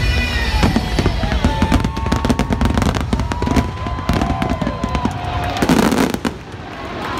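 Fireworks finale: a fast barrage of shell bursts and crackles over the show's soundtrack music, ending in a dense flurry of cracks just before six seconds, after which the barrage falls away.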